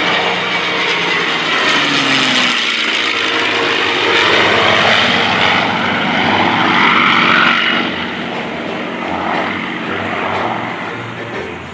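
Two WWII piston fighters, an F4U Corsair with its Pratt & Whitney R-2800 radial and a P-51 Mustang with its Merlin V-12, passing overhead in formation. The propeller and engine sound builds to its loudest about two-thirds of the way through, sweeps down in pitch, and then fades as they move away.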